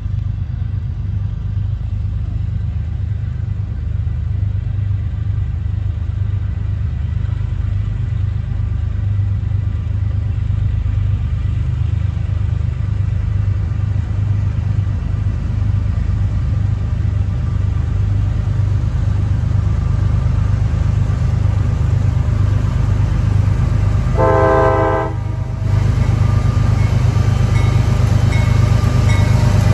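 Diesel freight locomotives running, a steady low engine rumble that slowly grows louder, with one short horn blast about 24 seconds in.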